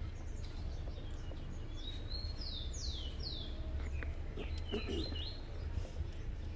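A bird singing two short runs of quick falling whistled notes over a steady low outdoor rumble, with a few faint clicks.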